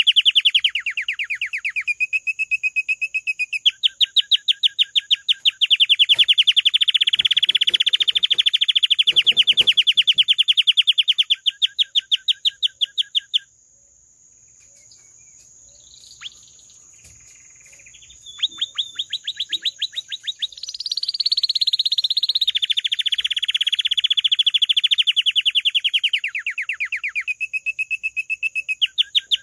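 Domestic canary singing in long rolling trills of fast repeated notes. The song breaks off for a few seconds about halfway through, with only a few softer calls, then the trills resume.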